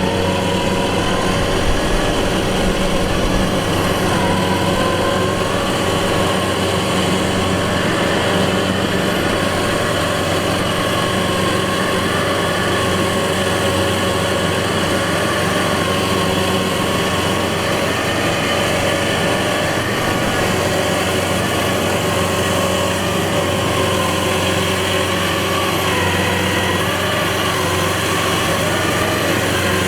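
Rice-harvesting machine's engine running steadily, with slight wavers in pitch a few seconds in and again near the end.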